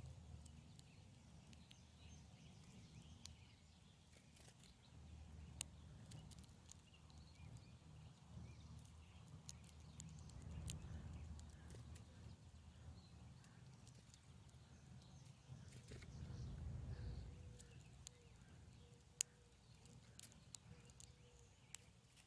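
Near silence: a faint low rumble with a few scattered small clicks, and a faint steady tone near the end.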